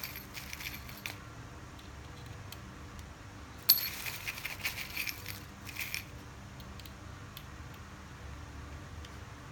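Small metal screws clinking and rattling as they are handled: a few light clicks in the first second, then a sharp clink nearly four seconds in followed by about two seconds of rattling.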